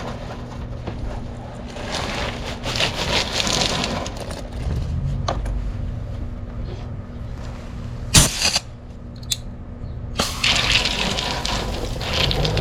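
Water sloshing and splashing, with a few sharp knocks, the loudest about eight seconds in.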